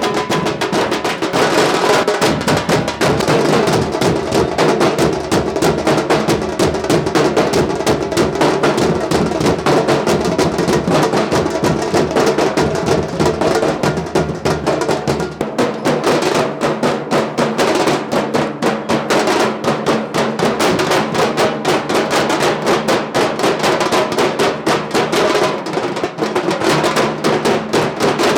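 Nashik dhol troupe drumming loudly and without a break: deep dhol beats under a fast, rattling tasha roll.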